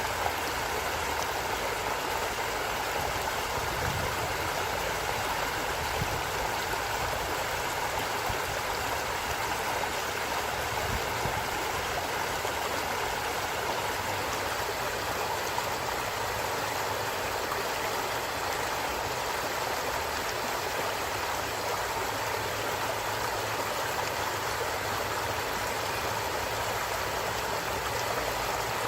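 Forest stream flowing, a steady rushing of water.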